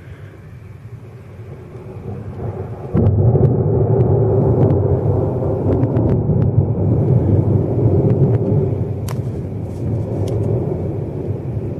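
Thunder: a low rumble that jumps suddenly to a loud peal about three seconds in, then rolls on and slowly fades.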